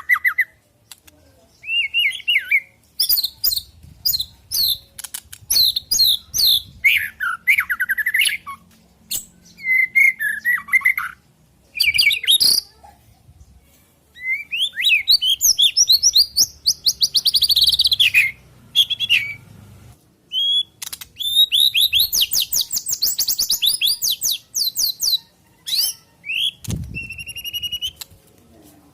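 White-rumped shama (murai batu) song in separate bursts, mixing clear whistled glides, fast rattling trills and sharp clicks, with short pauses between phrases. There is a low thump near the end.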